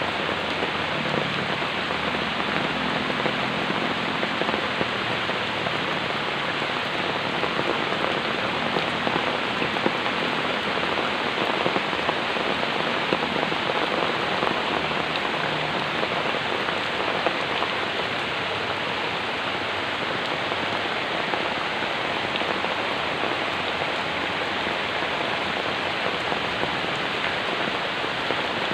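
Steady heavy rainfall, an even hiss of rain on surfaces that holds at one level throughout.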